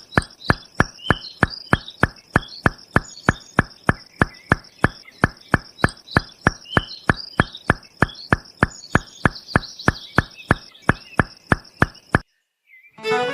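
Steady, evenly spaced knocking, about four knocks a second, over faint high chirping; it stops abruptly near the end.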